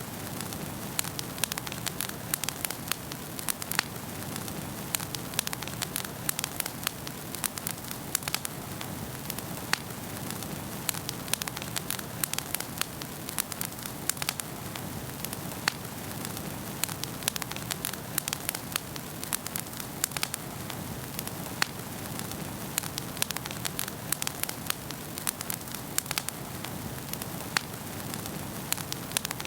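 Wood fire burning in a fireplace: a steady low roar of flames with frequent irregular sharp crackles and pops.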